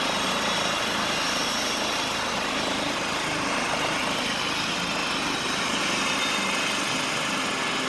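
Medevac helicopter on the ground after landing with its engine running and rotor turning, a steady rush of rotor and engine noise with a faint whine over it.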